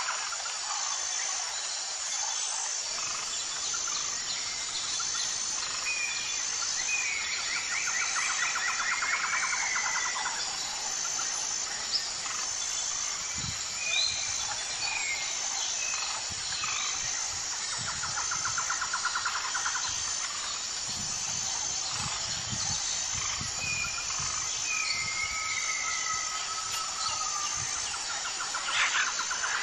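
Wild birds calling: short whistled notes and buzzy trills repeating every few seconds, over a steady high-pitched pulsing in the background.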